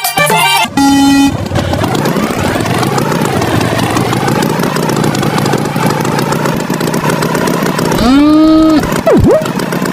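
Cartoon sound effect of a motor vehicle engine running, its pitch drifting up and down, with a short steady tone just before it. Near the end a rising pitched cry sounds, then a quick swooping glide.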